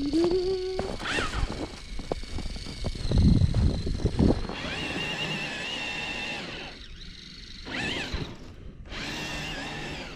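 Electric motors of RC crawler trucks whining as they drive, the pitch rising and holding at several steady levels, with scattered knocks and a stretch of heavy low rumble a few seconds in.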